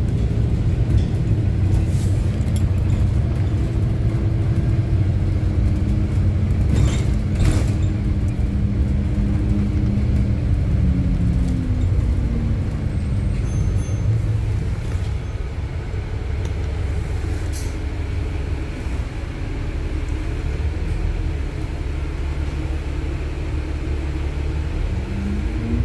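Bus engine heard from inside the cabin, its pitch dropping about halfway through as the bus slows, then rising again near the end as it pulls away. A couple of short knocks about a third of the way in.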